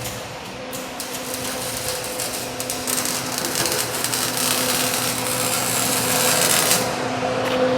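A metalworking tool working steel: a harsh, crackly hiss that builds from about a second in and cuts off sharply near the end, over a steady low hum.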